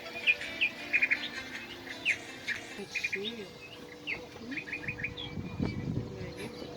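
Small birds chirping and twittering outdoors: many short, quick chirps and rapid little trills overlapping through the whole stretch.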